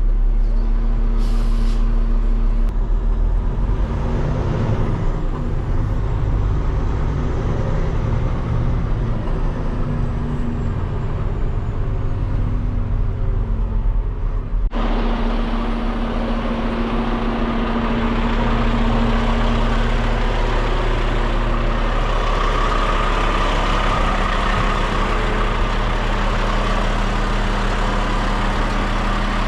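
Peterbilt 589 dump truck's diesel engine running steadily, heard from the cab. About halfway through, the sound changes abruptly and a loud hiss rises over the engine.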